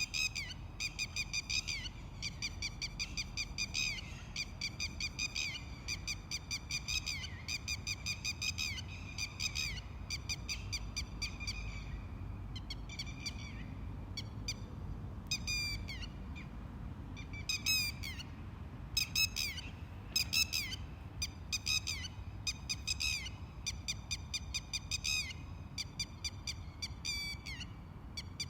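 Red-wattled lapwing calling: bursts of sharp, high, rapidly repeated notes, one burst after another, over a steady low background rumble.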